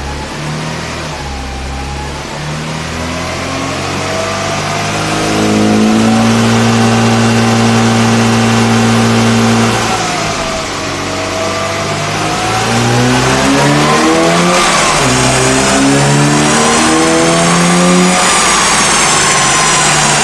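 A restored 1960s Mini's four-cylinder engine under load on a rolling road: the revs climb in steps and hold high, ease off, then climb and hold again. A thin whine rises and falls with the speed.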